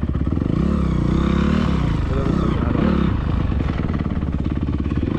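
Honda CRF250R's single-cylinder four-stroke dirt-bike engine running, the revs rising and falling a few times.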